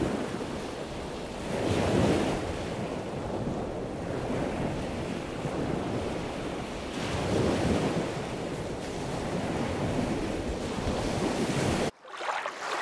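Steady rushing water noise like surf, swelling twice, about two seconds in and again around seven and a half seconds, then cutting off abruptly near the end.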